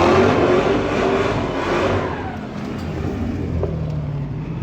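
Car engine revving loudly, then easing off with its pitch falling about two seconds in and settling lower.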